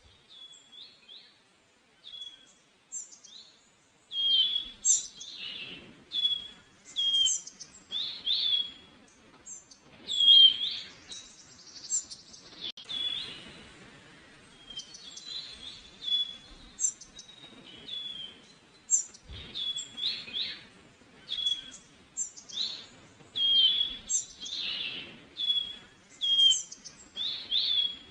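Songbirds chirping, many short calls repeated every half second or so, with a little more background noise from a few seconds in.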